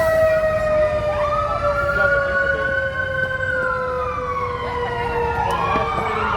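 Emergency vehicle sirens wailing, more than one at once: one climbs about a second in, slides slowly down, then climbs again near the end, over a lower tone that falls slowly. A low rumble runs underneath.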